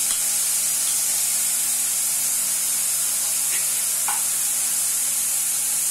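Horse gram with onion and grated coconut sizzling steadily in hot oil in a nonstick kadai.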